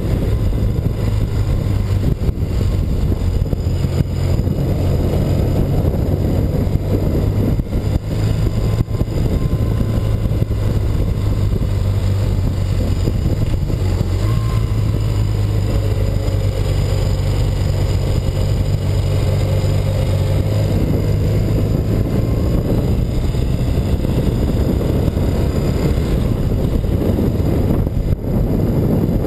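1984 BMW R100RS motorcycle's air-cooled flat-twin boxer engine running steadily while riding, its pitch shifting a little with throttle and gear changes.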